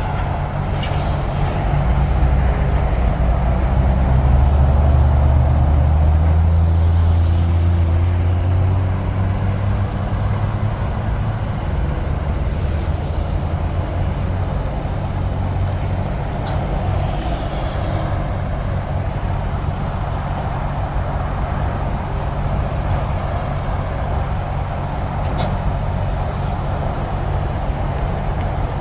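Steady rush of highway traffic. A heavy engine's low rumble swells, is loudest about four to nine seconds in, then fades as it passes.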